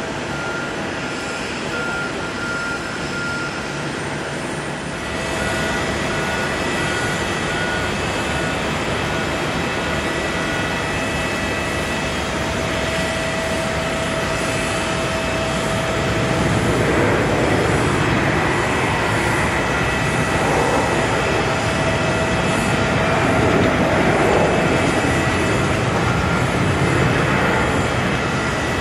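Jet airliner engines: a steady whine over a broad rumble that grows louder about five seconds in, swells again from about sixteen seconds and is loudest near twenty-four seconds. A vehicle's reversing alarm beeps in short, regular beeps through roughly the first ten seconds.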